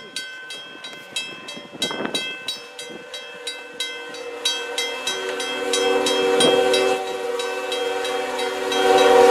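A train horn sounds a long chord of several tones, starting about five seconds in and growing louder near the end. Before and under it is a rapid ringing, about three strikes a second, like a railroad crossing warning bell.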